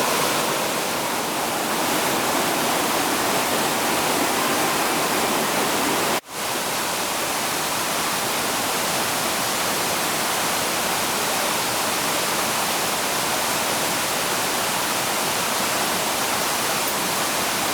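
A waterfall rushing steadily with a dense, even roar of falling water. The sound cuts out for an instant about six seconds in, then carries on unchanged.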